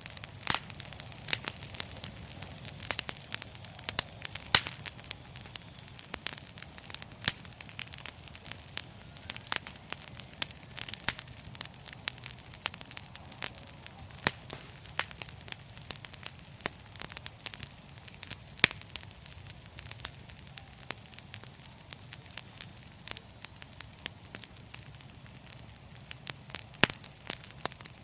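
Wood fire crackling in a fireplace: dense, irregular pops and snaps over a steady low rush of the flames, with a few louder pops standing out.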